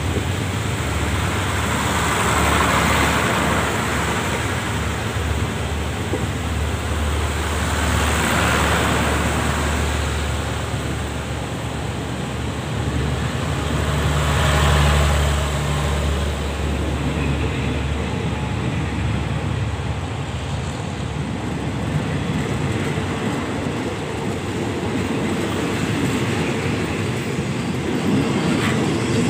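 Diesel-hauled express train running through the station: a steady low locomotive engine rumble under rail and wheel noise, swelling three times in the first half.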